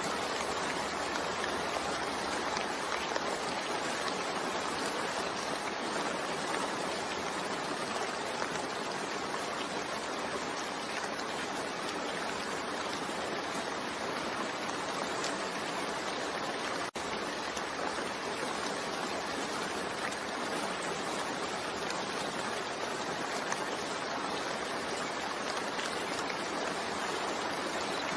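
Steady rain falling, an even hiss with no pauses, with a momentary dropout about seventeen seconds in.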